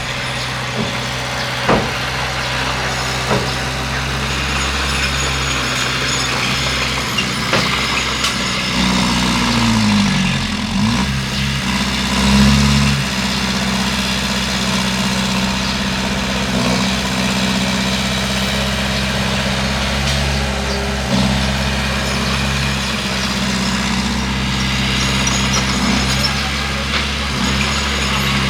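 Bulldozer's diesel engine running steadily, its pitch dipping and climbing back about ten seconds in. A few sharp knocks come in the first few seconds.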